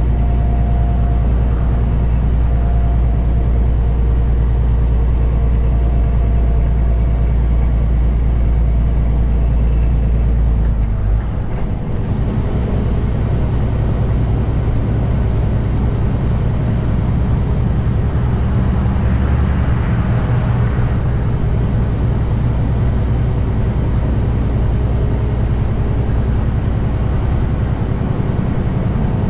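Detroit DD15 diesel engine of a 2021 Western Star 4900 semi truck running steadily under way with a loud, low drone; about eleven seconds in the level dips briefly and the engine note changes.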